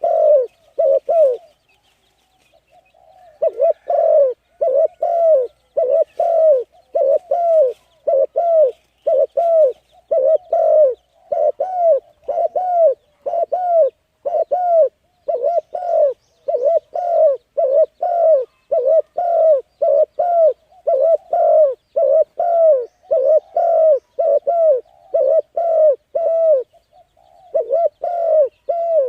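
A bird calling over and over in short, low, hollow cooing notes, each rising then falling in pitch, about one and a half to two a second, with a short pause about two seconds in and another near the end.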